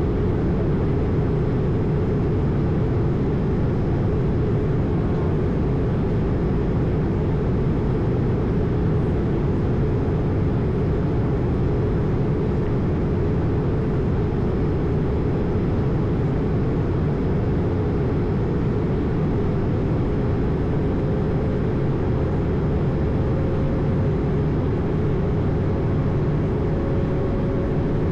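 Airbus A220 in flight, heard from inside the aircraft: a steady low rush of airflow and engine noise from its Pratt & Whitney PW1500G geared turbofans. A faint steady tone joins in about two-thirds of the way through.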